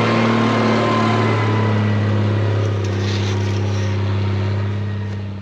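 Diesel engine of a 1983 Mercedes Unimog U1700L running steadily under way with a deep, even hum. The sound falls away near the end.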